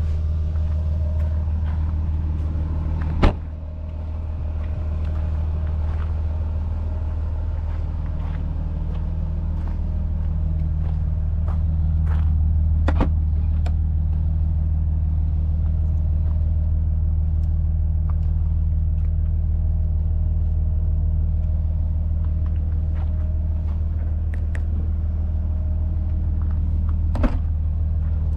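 Audi A6 3.0 TDI BiTurbo's twin-turbo V6 diesel idling with a steady low rumble, a little louder from about twelve seconds in. A single sharp thump comes about three seconds in.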